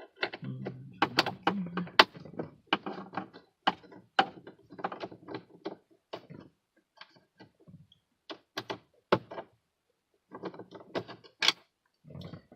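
Irregular clicking and knocking of plastic dashboard trim pieces being handled and worked loose, dense for the first few seconds and then sparser, with a short pause about three-quarters of the way in.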